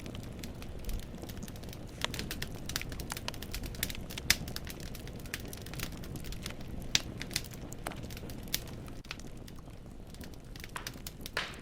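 Wood fire burning in a fireplace: irregular sharp crackles and pops of burning firewood over a low steady rumble of the flames, with a louder pop about four seconds in.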